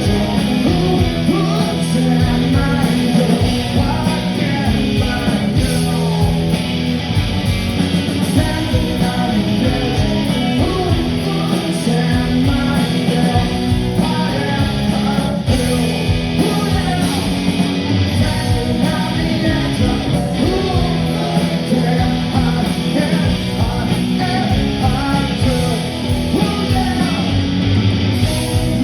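Live rock band playing at full volume: electric guitars, bass and drums, with a voice singing at times.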